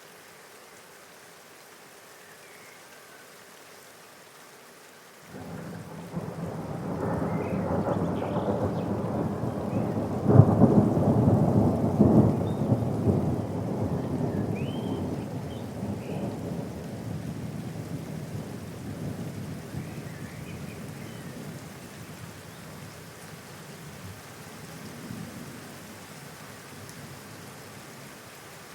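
Steady rain, then a long roll of thunder that breaks in suddenly about five seconds in. The thunder peaks with a sharp crack near the middle and rumbles away slowly over the remainder, with the rain going on underneath.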